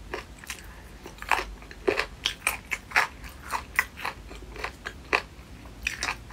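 A person chewing food close to the microphone: an irregular run of sharp, short clicking mouth sounds, a few a second.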